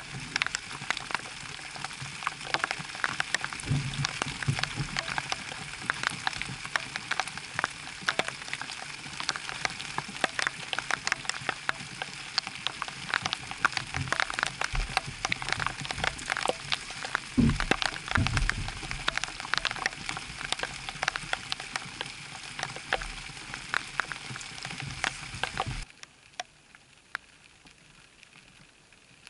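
Rain falling on the lagoon water and the kayak, a steady dense spatter of drops, with a few low thumps in the middle; the rain sound falls away suddenly near the end.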